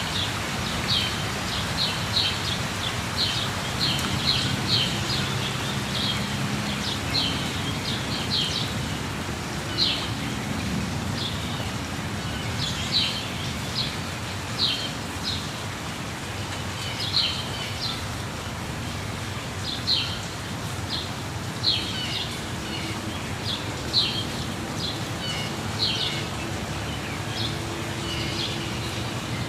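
Steady rush of falling water under birds chirping, many short calls repeated every second or so.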